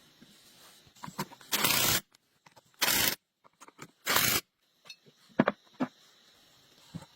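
Three short hissing bursts about a second apart, each lasting about half a second, followed by a few light clicks.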